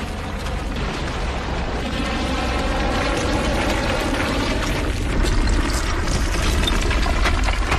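Deep rumbling and crumbling of concrete floors collapsing onto the floors below, a heavy steady roar of falling debris that grows somewhat louder in the second half.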